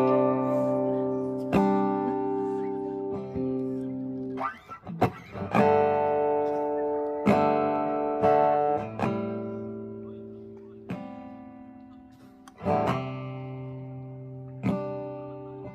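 Acoustic guitar: single chords strummed and left to ring out, a new chord every one to two seconds.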